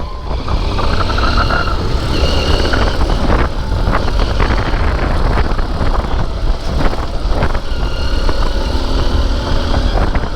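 XR dirt bike ridden over a rough, wet off-road track: the engine runs under a heavy, continuous rumble, with scattered short knocks from the bumpy ground.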